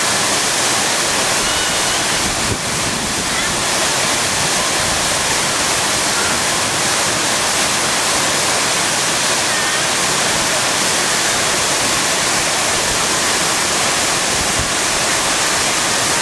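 Waterfall rushing close by: a loud, steady, even hiss of falling water.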